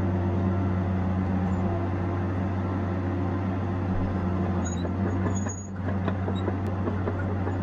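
Diesel engine of a Tigercat 870C feller buncher running steadily with a constant drone, dipping briefly a little before six seconds in.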